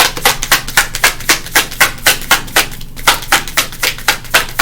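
A deck of tarot cards being shuffled by hand: a quick, even patter of card slaps, about five a second.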